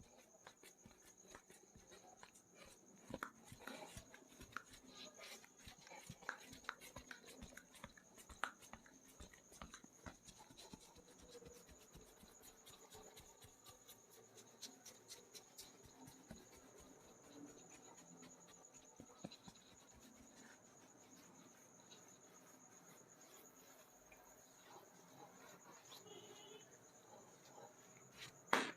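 Faint hand massage of a person's head and skin: soft rubbing with scattered light clicks and taps, over a steady high-pitched background tone.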